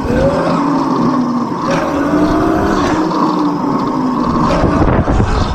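Bomb Moto B1 electric dirt bike's motor whining while riding, its pitch rising several times as the throttle is opened. A heavy low rumble of wind on the microphone comes in near the end.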